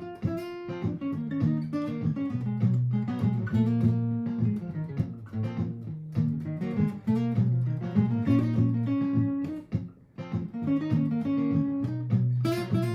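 Martin GPCPA4 acoustic-electric guitar played through a looper pedal: a looped chord part holds steady low notes while single plucked notes are played over it.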